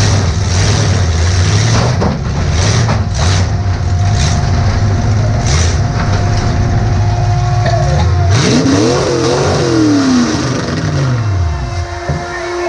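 Demolition derby car's engine running, heard from inside the car, revving up and back down about eight seconds in. A steady high tone sounds underneath throughout.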